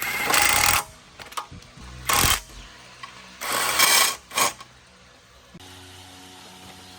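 Four short, harsh bursts of workshop tool noise, each under a second long, with quiet gaps between them; about five and a half seconds in, the background switches to a steady low hum.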